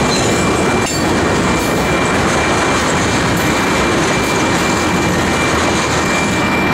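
Freight train's tank and hopper cars rolling past on the rails, a dense steady rumble of steel wheels on track with a thin steady high-pitched tone running through it.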